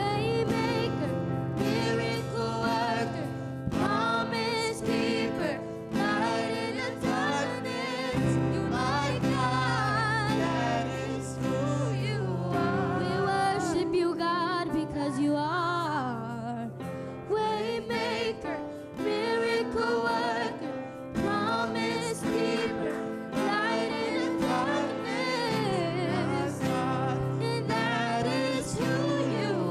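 Live gospel worship music: voices singing over a band with sustained low notes.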